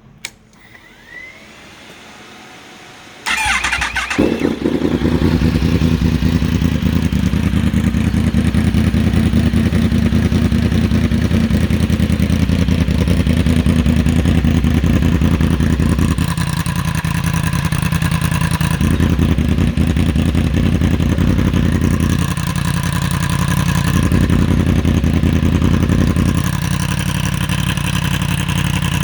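2019 Yamaha MT-10's crossplane inline-four through an Austin Racing exhaust: a click, then about three seconds in the engine cranks, catches and settles into a steady idle.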